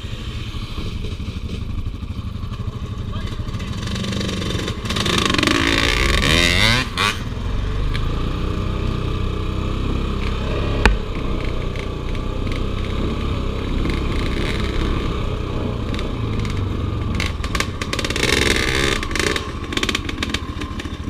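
Off-road motorcycle or ATV engine running steadily, revved up and back down a couple of times, with a single sharp click about halfway through.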